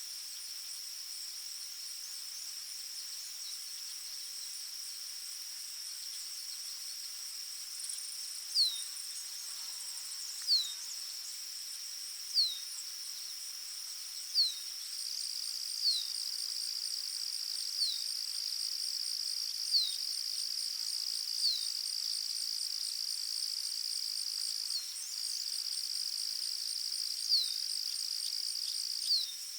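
Forest ambience: steady, high-pitched insect trilling. From about eight seconds in, a bird cuts through it with a short, down-slurred note repeated roughly every two seconds.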